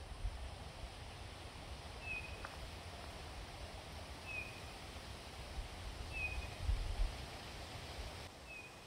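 A bird repeating a short, high, slightly falling call about every two seconds, over a low rumbling background noise.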